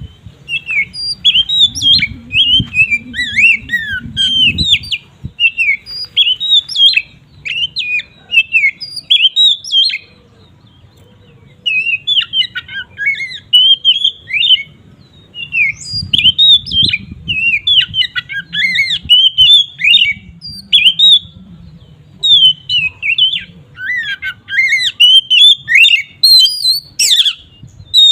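Oriental magpie-robin (kacer) singing in a fast, continuous run of varied chirps, whistles and harsh notes, breaking off for a second or two about ten seconds in before resuming.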